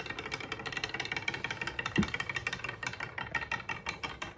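Glass marbles rolling and clattering down a wooden marble-run track, a rapid continuous rattle of clicks, with one louder knock about two seconds in.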